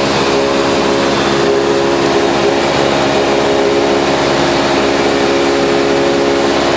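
Light aircraft's piston engine and propeller running at a steady drone, with no change in pitch.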